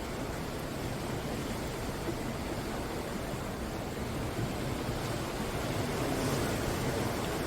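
Sea waves breaking and washing up on the shore, a steady rush of surf that swells a little louder about two-thirds of the way through.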